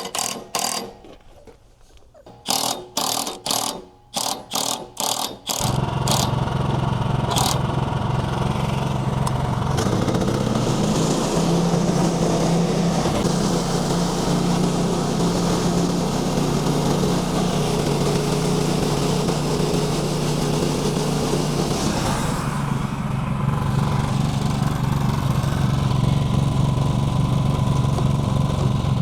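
A run of short, quick knocks, then a small engine starts about five seconds in and runs steadily.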